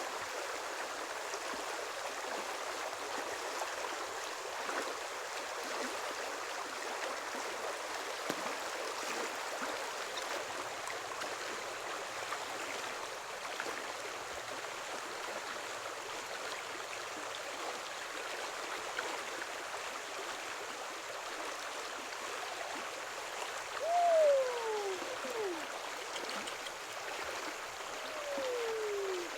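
Steady rushing of flowing water. Near the end there are two short falling whistle-like sounds a few seconds apart.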